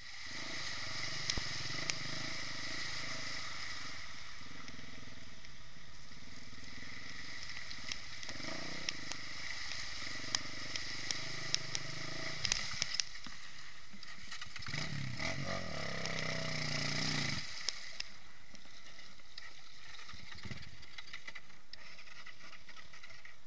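Irbis TTR 250 enduro motorcycle's single-cylinder engine running, its pitch wavering with the throttle and a longer rev that rises and falls about two-thirds of the way through, with scattered sharp clicks over it.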